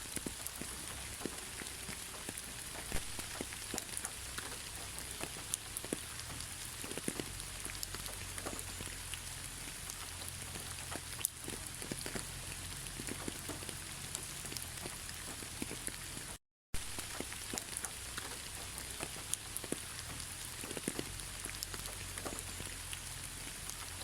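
Steady rain, with many individual drops ticking sharply close by over the even hiss of the downpour. The sound cuts out completely for a split second about two-thirds of the way through.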